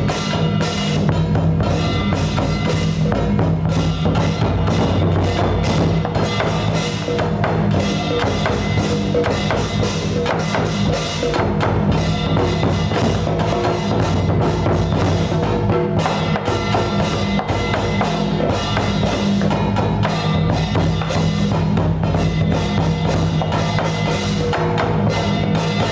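Music of fast, dense percussion strikes, wood-block-like, over a steady low tone, running on without a break.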